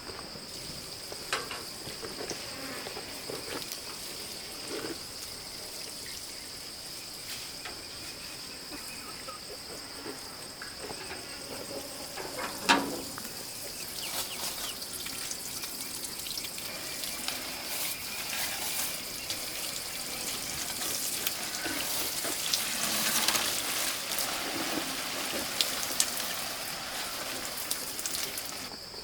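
Insects chirring in a steady high drone, with scattered clicks and knocks over it, one sharp knock about thirteen seconds in.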